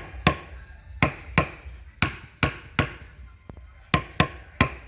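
Hammer striking metal: about ten sharp blows in short runs of two or three, each with a slight metallic ring.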